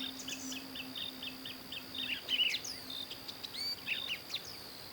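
Birds chirping and calling, opening with a quick run of short, evenly spaced chirps and then scattered calls, over a steady high insect drone.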